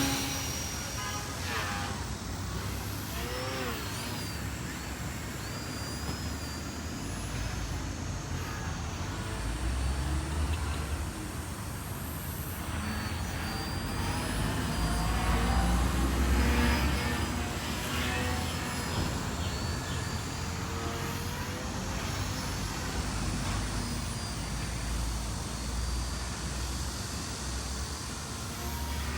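Electric RC model plane's motor and propeller whining high, the pitch rising and falling as the throttle changes, over steady city traffic noise.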